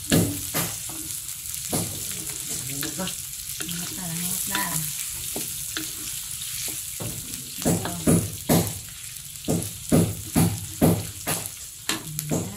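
Garlic, onion and dried chillies sizzling in a metal wok, with a wooden spatula scraping and knocking the pan in short strokes. The strokes thin out through the middle and pick up again, about two a second, in the last few seconds.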